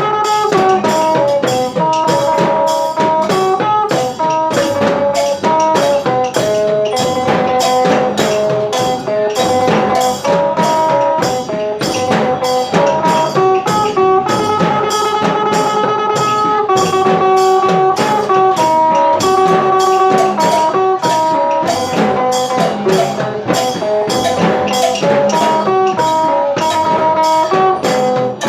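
Phin, the Isan plucked lute, playing a lively melody of quick plucked notes over a steady drum beat.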